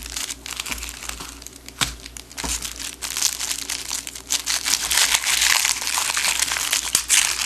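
Firecracker pack wrapper crinkling and rustling as it is handled and opened by hand, a dense run of crackles with sharp ticks that thickens about three seconds in.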